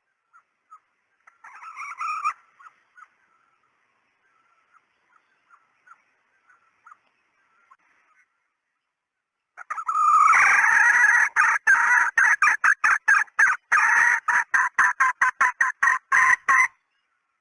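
Junglefowl hen calling: soft scattered clucks, with a short louder call about two seconds in. About ten seconds in comes a loud, rapid cackle of repeated notes, which stops shortly before the end.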